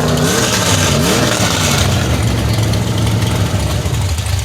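Lifted pickup truck's engine revving, its pitch falling and rising in the first second or so, then running steadily.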